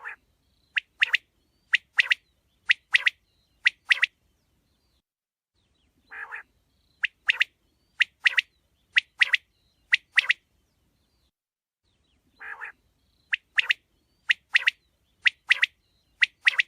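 Quail calling: three phrases about six seconds apart, each a short low raspy note followed by about four sharp, ringing double notes spaced roughly a second apart.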